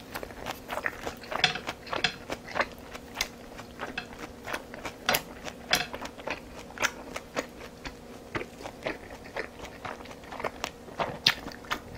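Close-miked chewing and wet mouth clicks of a person eating a mouthful of food, a rapid irregular series of short smacks and crunches. A faint steady hum runs underneath.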